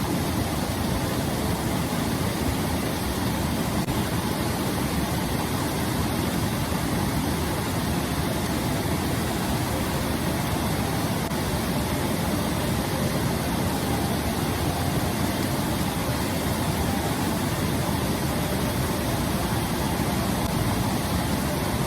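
Waterfall and rushing water making a steady, even roar.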